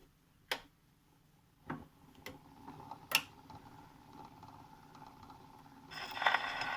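Stylus running in the lead-in groove of an old Zonophone gramophone disc: a few scattered clicks over faint surface noise, then about six seconds in the surface hiss and crackle jump much louder.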